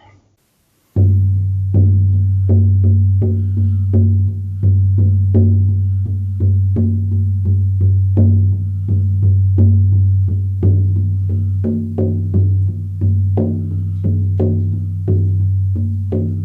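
18-inch hair-on horse skin shamanic frame drum on an ash frame, struck with a firm beater in a steady, even beat. Its deep tone rings on between strikes. The playing begins about a second in.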